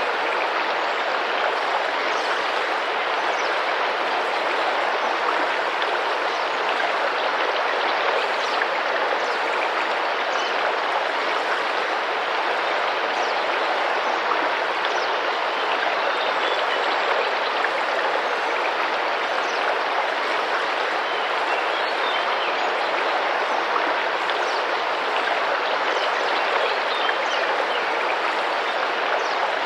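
Tropical rainforest river running and splashing in a steady, even rush of water, with faint short high bird chirps now and then.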